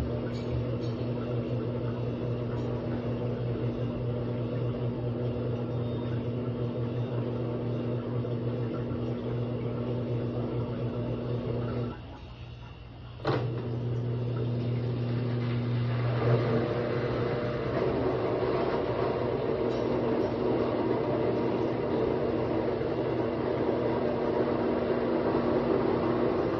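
Midea washer-dryer spinning, a steady mechanical hum with a low tone. It drops out briefly about halfway through, comes back with a click, then a louder rattling whir builds up: the noise in the spin cycle that the owner finds abnormal.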